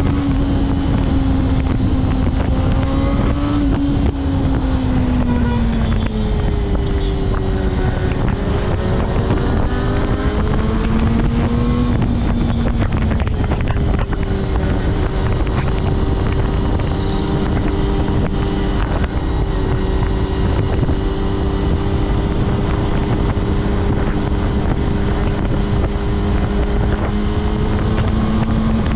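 Honda CBR250RR MC22 inline-four engine running under way, with heavy wind rush on the helmet-mounted microphone. The engine pitch dips and rises a few times in the first half, then holds steady.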